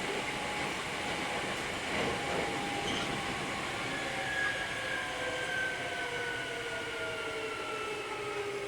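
Hankyu 3300 series electric train heard from inside the car, wheels rolling on the rails with a steady rumble. From about halfway through, the traction motors' whine slides slowly down in pitch as the train slows.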